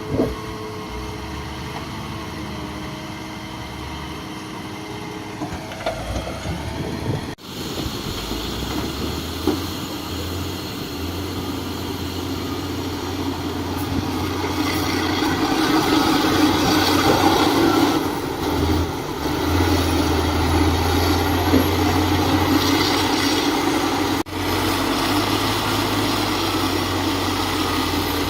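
Heavy construction machine's diesel engine running continuously, growing louder for a few seconds about halfway through, with two momentary breaks in the sound.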